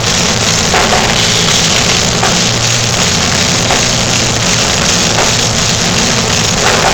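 Heavy metal band playing live, a dense, loud wash of drum kit and band with accents about every second and a half. The recording is distorted and muddy.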